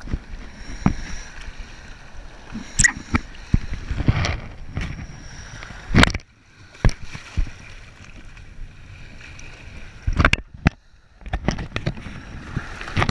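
Water sloshing and splashing, with irregular sharp knocks, the loudest about six seconds in, over a faint steady high whine.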